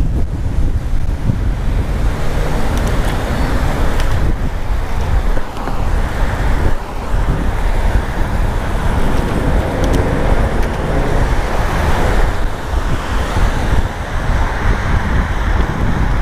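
Wind buffeting the microphone of a bicycle-mounted camera while riding, with road traffic passing along the street.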